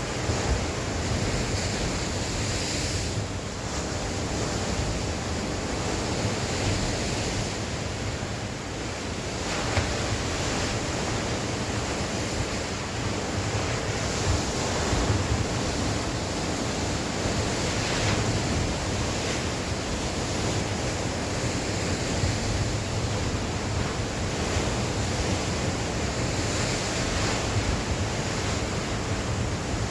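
Sea waves breaking and washing on the shore, a continuous surf with gentle swells in loudness, mixed with wind buffeting the microphone.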